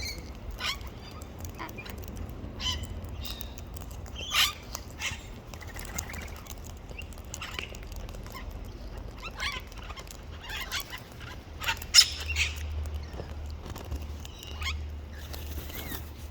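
Wild birds giving short chirps and calls, scattered and overlapping, with the loudest call about twelve seconds in.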